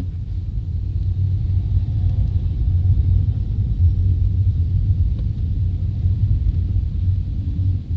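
Steady low rumble of a car driving, heard from inside the cabin: tyre and engine noise with no clear knocks or bumps.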